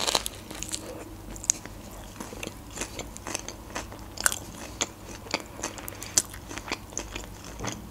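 A bite into a fried sushi roll of crab stick, rice, lettuce and cucumber, then close-up chewing: many short crisp crunches and wet mouth clicks at an uneven pace.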